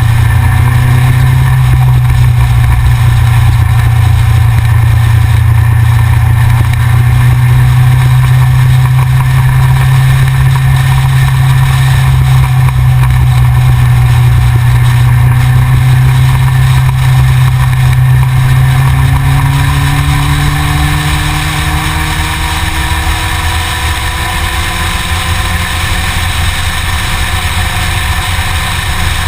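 Yamaha XJR's inline-four engine running on the move, heard from the front of the bike mixed with a steady loud rumble of road and wind noise. In the last third the level drops a little and the engine note rises slowly.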